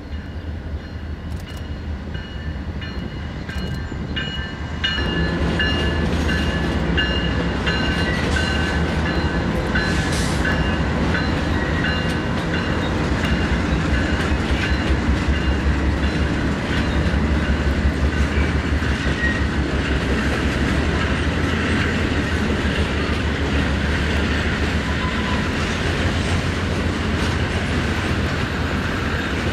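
A freight train passing: Norfolk Southern diesel locomotives rumbling by, then a long string of freight cars rolling and clattering over the rails. It grows louder about five seconds in, with a high steady tone over the first dozen seconds.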